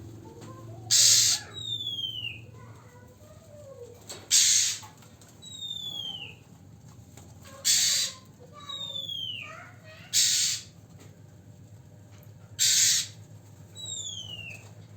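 Oriental magpie-robins calling: five harsh, hissing rasps about three seconds apart, each followed by a clear falling whistle. A steady low hum sits underneath.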